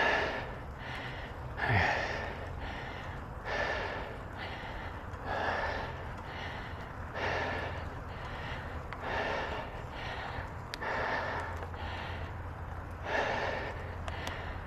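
Cyclist breathing hard after a steep climb: a loud breath about every two seconds with a softer one between each pair, over a steady low hum.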